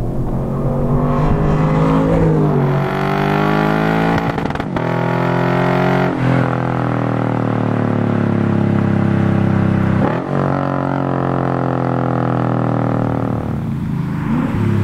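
2008 Lexus IS F's V8 through a custom 3-inch cat-back exhaust, accelerating with the pitch climbing. The sound breaks briefly at several gear changes, then holds a steady drone before easing off near the end.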